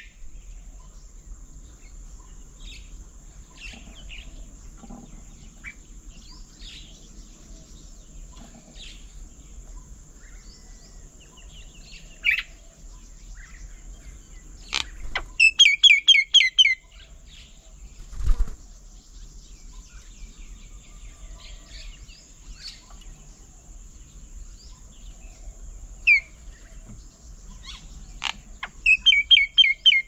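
Songbirds calling: scattered short chirps, and twice a loud burst of five or six quick downward-sliding notes, once around halfway and once near the end. A dull low thump comes a little after halfway.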